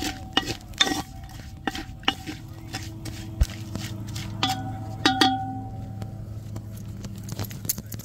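Metal cookware being handled: utensils clinking, knocking and scraping against cookware, some strikes leaving a short ringing tone, over a steady low hum.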